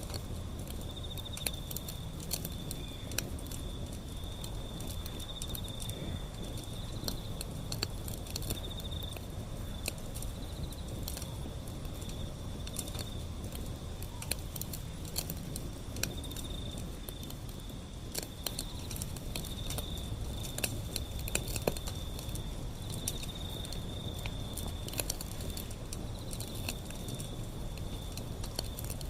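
Wood fire burning with irregular crackles and pops over a low rumble of flames, with a continuous high-pitched insect trill behind it.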